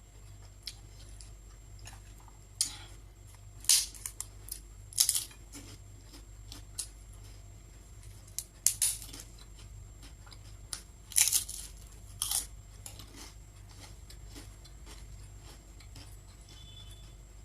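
Crisp prawn chips being bitten and chewed close to the microphone: several sharp, loud crunches spread through, with quieter chewing clicks between them.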